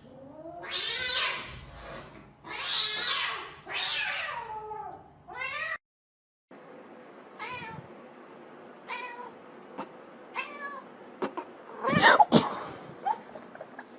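Domestic cat meowing in long, loud, drawn-out calls, four in a row. After a brief break come quieter, shorter meows about every second and a half, with a couple of sharp knocks near the end.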